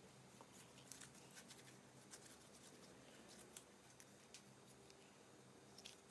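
Faint, irregular small clicks and crackles of clear slime being squished and stretched by hand, over a low room hum.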